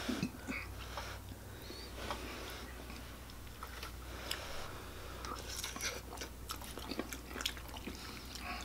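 Soft chewing and mouth sounds of people eating spaghetti squash with meat sauce, with scattered light clicks.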